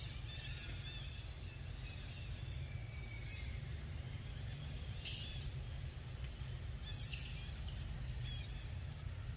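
Outdoor ambience with a steady low rumble, overlaid with thin, high-pitched animal chirps in the first few seconds and a few short high calls later on.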